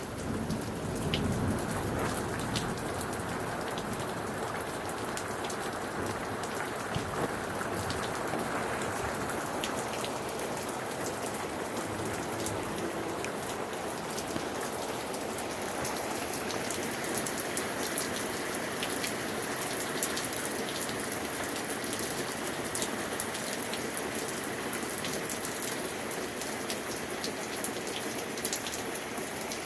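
Steady rain falling, with scattered close drops ticking. A low rumble of thunder dies away over the first couple of seconds.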